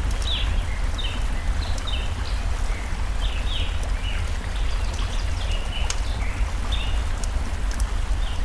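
Forest stream ambience with a campfire: steady rushing water and scattered sharp crackles, under a bird singing short chirps that repeat quickly and continuously.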